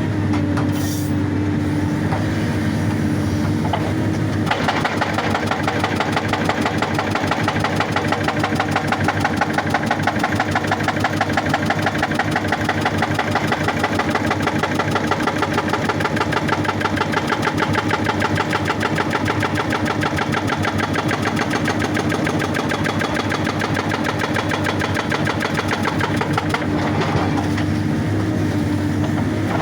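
Excavator engine running steadily, with its hydraulic rock breaker hammering rapidly on rock from about four seconds in until shortly before the end.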